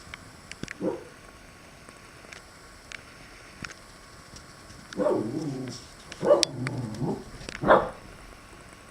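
Dog barking at squirrels: one short bark about a second in, then three louder, longer barks in the second half.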